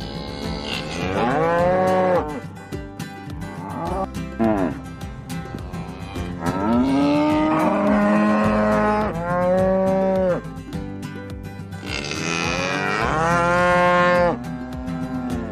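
Cattle mooing repeatedly: about five long, drawn-out moos, each rising and falling in pitch, with short gaps between them.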